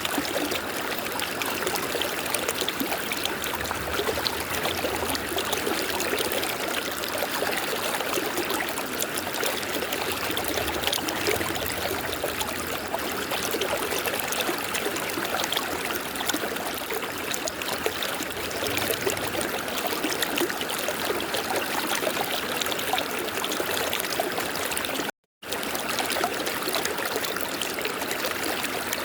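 River water flowing in a steady rush with trickling and splashing. The sound cuts out completely for a split second near the end, then resumes.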